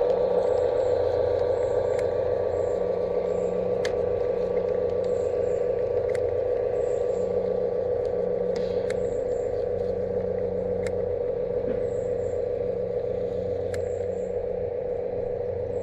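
Garden-scale model diesel locomotive running along the track: a steady motor and gear hum with scattered sharp clicks, fading slowly.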